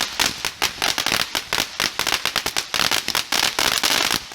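A firecracker-type consumer firework going off in a rapid, irregular string of sharp cracks, several a second.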